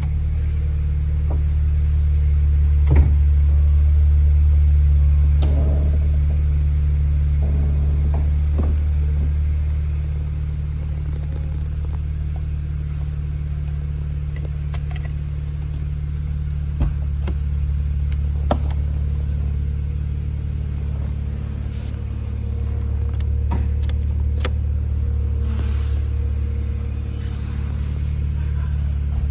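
2011 BMW Z4 sDrive35is's 3.0-litre twin-turbocharged inline-six running steadily, an even low rumble that swells slightly now and then, with a few faint clicks.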